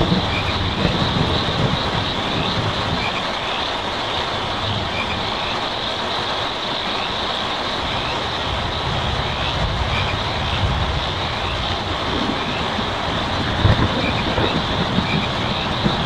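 Steady rain falling on a tin roof, with a low rumble swelling and fading beneath it. A faint short chirp repeats about once a second.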